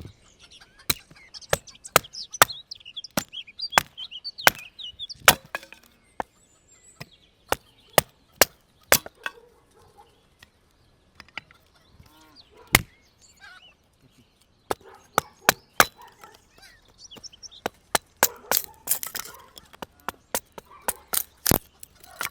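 Irregular run of sharp chopping strokes on wood, a few a second, thinning out in the middle and coming thick and fast near the end; faint bird chirps behind.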